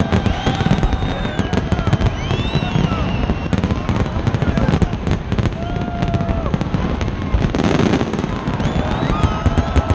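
Fireworks display: a dense run of sharp bangs and crackles over a constant low rumble of bursting shells, with voices from a large crowd underneath.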